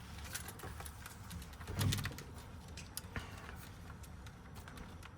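Small metal clicks and ticks of lock wafers being handled and fitted into a Ford lock cylinder during rekeying, with one louder knock about two seconds in.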